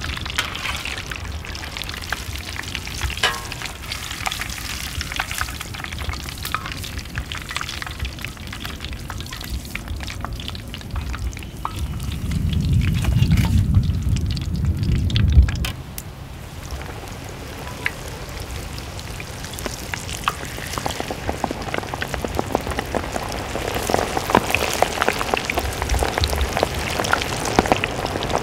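Chicken frying in hot oil, a dense sizzle and crackle of spitting fat. It grows heavier again toward the end. For about three seconds in the middle a deeper, louder rumble rises over it.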